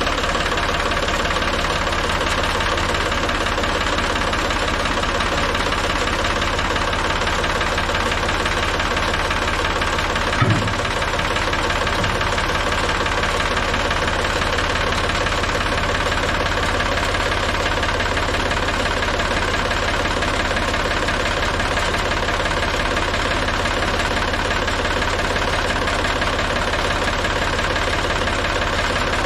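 Tractor engine idling steadily, with a short thump about ten seconds in.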